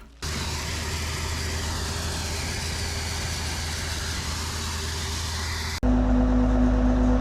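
A Buschhoff mobile feed mill on the contractor's truck running while it grinds grain: a steady mechanical drone with a low hum. About six seconds in it cuts to a louder, deeper run with a strong steady tone.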